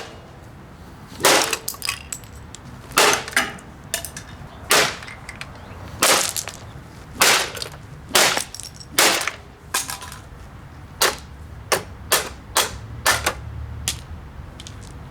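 Repeated sharp blows striking the body of a vintage Hoover upright vacuum cleaner as it is being smashed: about twenty impacts at irregular spacing, some in quick pairs.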